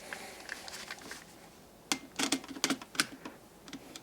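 Small sharp clicks and taps of hand work on an electrical outlet: wire being hooked around a terminal screw and tightened with a screwdriver. The clicks come in a quick cluster about halfway through.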